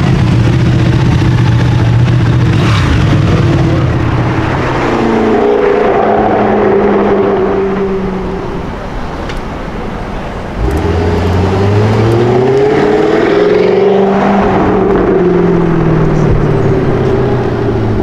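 Performance car engine, loud throughout, with its pitch shifting; it eases off briefly, then about ten seconds in it is suddenly given throttle and revs up in a rising climb before settling.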